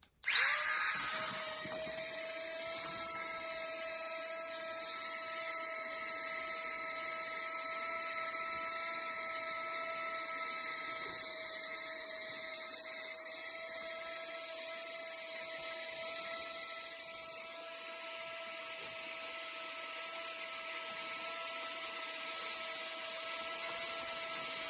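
FLEXTAILGEAR Tiny Pump 2 mini electric air pump switching on, its motor rising quickly in pitch and then running with a steady high whine and airy hiss. It is working on its suction side, drawing air out to deflate an inflatable.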